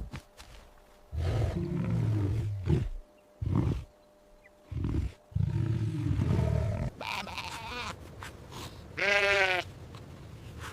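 A series of animal calls. First come three low, rough calls: a long one about a second in, a short one in the middle and another long one. About nine seconds in there is one wavering sheep bleat.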